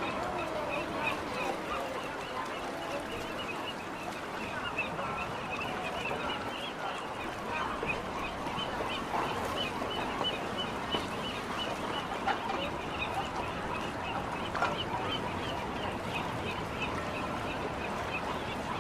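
Birds calling over a steady background of outdoor noise, with a rapid, even series of short high chirps and a few sharp clicks.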